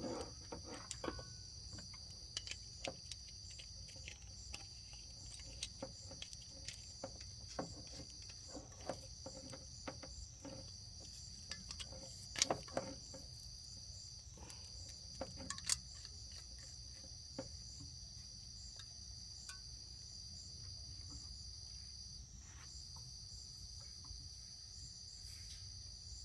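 Steady high-pitched trilling of crickets, with scattered light clicks and knocks from handling a refrigerant can tap and hose fittings; the loudest knocks come about 12 and 16 seconds in.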